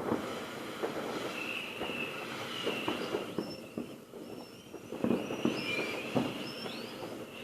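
Fireworks going off: scattered pops and crackles, with high, wavering whistles running through the middle and latter part.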